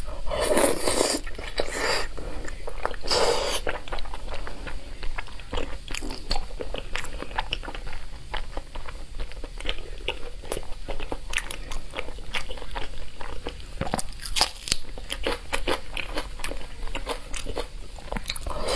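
Close-miked mukbang eating sounds: biting and chewing braised pork with gelatinous skin, with many small mouth clicks throughout. Two louder bursts come in the first four seconds as a piece is drawn into the mouth.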